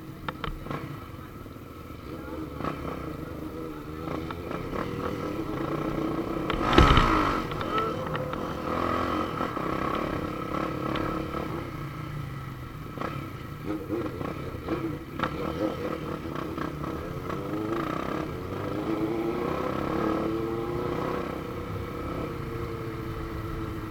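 Motorcycle engine running under way, its pitch rising and falling with throttle and gear changes, with a loud rush about seven seconds in.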